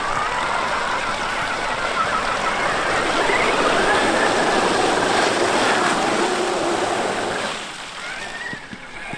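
Traxxas X-Maxx electric RC monster truck driving: its brushless motor whines, rising and falling with the throttle, over a steady rush of tyre and ground noise. The sound drops away about seven and a half seconds in as the truck moves off.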